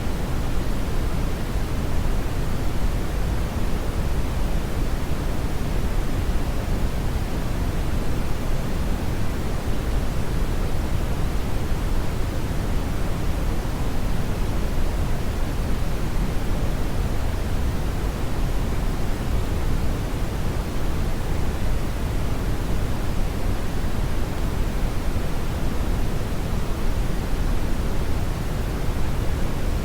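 Steady synthetic brown noise: an even rushing hiss, heaviest in the deep bass and falling away toward the treble, unchanging throughout.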